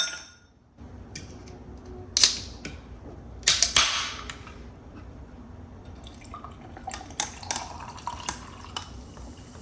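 Kitchen clatter while preparing food: dishes and utensils knocking and clinking. There is a sharp knock about two seconds in and a louder clatter about a second later, then a run of lighter clicks near the end, over a steady low hum.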